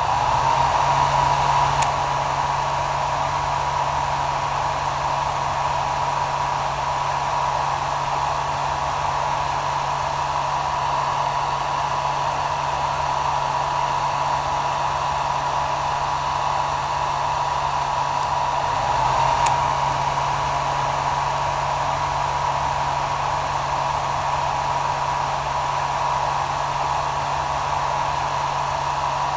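Hair dryer running continuously: a steady airy rush with a constant whine from the motor and a low hum, swelling slightly a couple of times.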